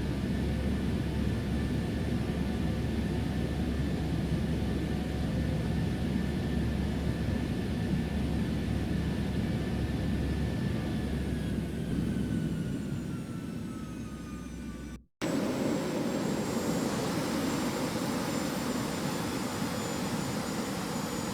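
Jet airliner engines running with a steady low rumble and whine. About twelve seconds in, the tones slide down and the sound grows quieter as the engines spool down, then it breaks off for an instant and comes back as a steady rumble with a high whine.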